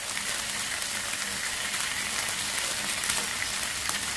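Chicken pieces coated in coconut-milk percik sauce sizzling steadily in a non-stick frying pan with no oil, a continuous fine crackle with a couple of slightly louder pops near the end.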